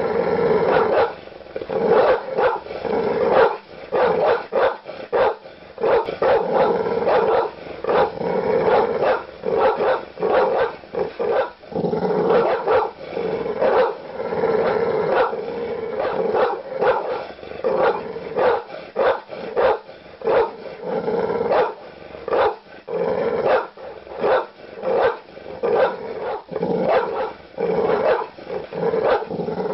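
Large dogs barking aggressively in a dense, unbroken run of deep barks, with barely a pause between them.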